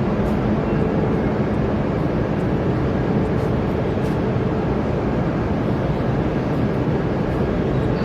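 E5 series Shinkansen running at speed: a steady, even rumble and rush with no change.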